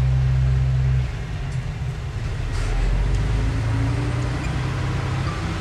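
Diesel engine of heavy earthmoving machinery running steadily. About a second in, the low engine sound changes abruptly, then runs on with a faint, slowly rising tone.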